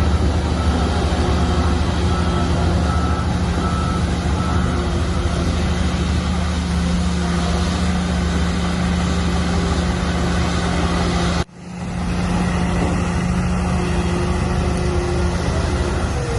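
Shantui bulldozer's diesel engine running steadily under load, with a reversing alarm beeping at an even pace. The sound cuts out abruptly about eleven seconds in and comes straight back.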